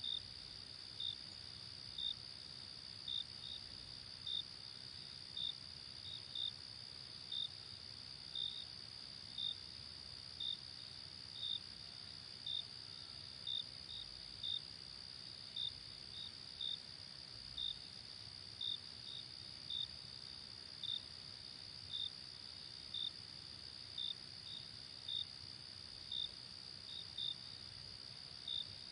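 Night crickets: a steady high-pitched insect trill, with one cricket chirping sharply about once a second, now and then two chirps close together.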